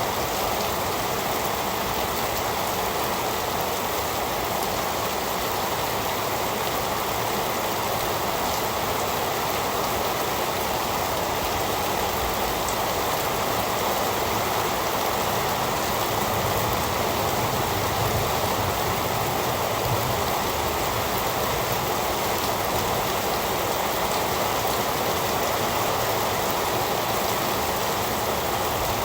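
Heavy rain falling, an even, steady hiss without thunder.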